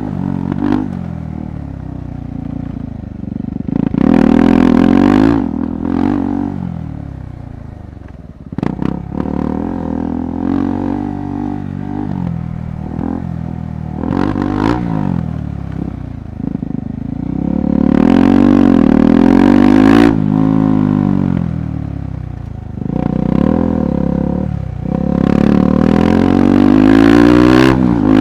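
KTM 390 Adventure's single-cylinder engine being ridden off-road, revving up and easing off several times as the rider works the throttle. Between the revs come sharp knocks and clatter from the bike over rough ground.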